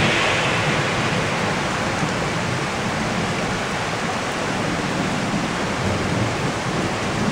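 Heavy rain falling in a steady downpour, an even hiss that keeps up without a break.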